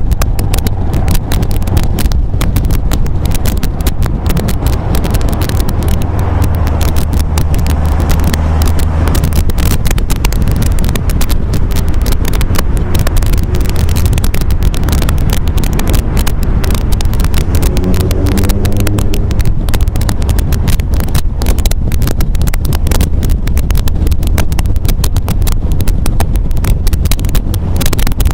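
MGA roadster's four-cylinder engine running steadily while driving on the road, with wind buffeting the microphone. About two-thirds of the way through, the engine note climbs in pitch as it revs up.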